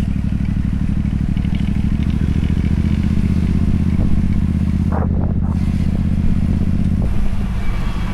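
Motorcycle engine running steadily at a constant note, which changes about seven seconds in.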